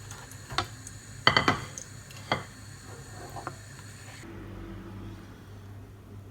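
Kitchen dishes and utensils clinking: a handful of sharp knocks, the loudest a quick cluster a little over a second in. A faint background hum cuts off about four seconds in.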